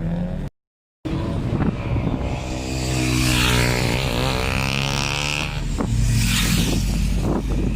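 A car engine revving hard as the car accelerates past, its pitch rising and then bending down around the middle, with a run of short sharp cracks near the end. A brief dropout cuts the sound shortly after the start.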